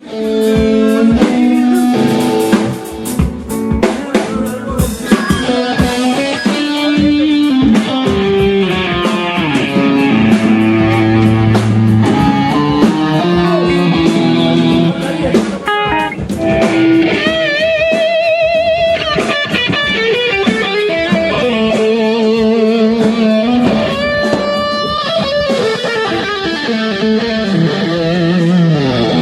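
Electric guitar playing melodic rock lines over a drum kit, with bent, wavering notes held about two-thirds of the way through.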